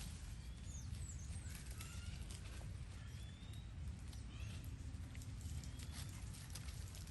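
Scattered rustling clicks and a few short high chirps over a low steady rumble.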